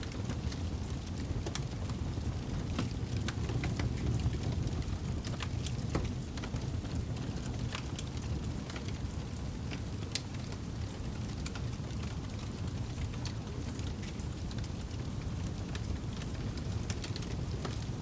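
Campfire crackling: a steady low rumble of burning with many scattered sharp pops and crackles throughout.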